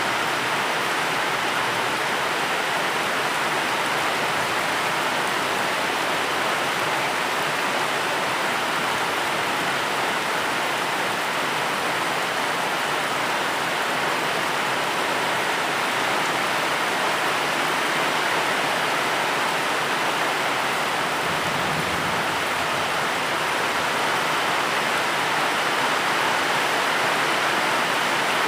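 Steady rain falling, an even, dense hiss with no breaks.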